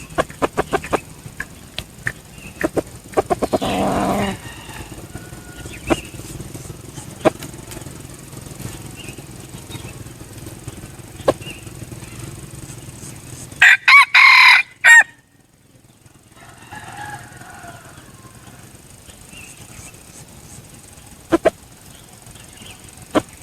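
A red junglefowl cock crows once, about two-thirds of the way in, in a short, loud crow broken into a few pieces. Near the start comes a quick run of fluttering clicks, like wing flaps, and single clicks and clucks are scattered through the rest.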